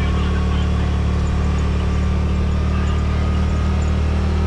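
Side-by-side UTV engine running steadily at an even cruising speed, a constant low hum with no change in pitch.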